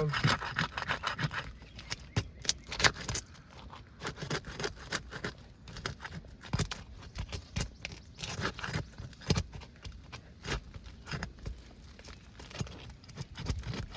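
Irregular scraping and clicking as a metal roofing tool is worked under an asphalt shingle tab to break its seal strip loose from the shingle below.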